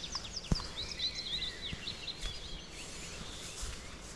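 Small songbirds singing: a run of quick, high, down-slurred notes, then a high twittering phrase about a second in. A single sharp click comes about half a second in.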